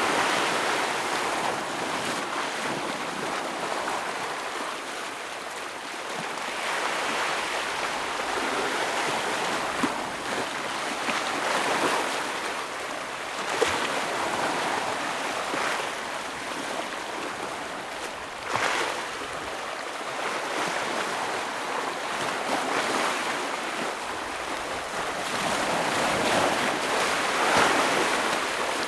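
Ocean waves breaking and washing over rocks, a continuous rushing surf that swells and eases every few seconds. One sharper surge comes just past the middle, and there are a couple of brief splash clicks.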